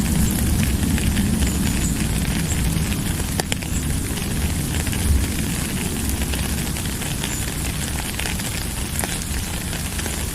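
Steady rain falling, a dense hiss with a low rumble beneath and many sharp drop ticks scattered through it.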